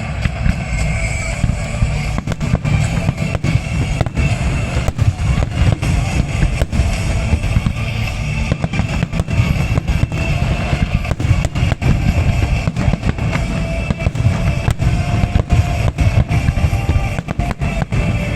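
Fireworks bursting, with many sharp bangs in quick succession over a low rumble, alongside loud music with drums and guitar.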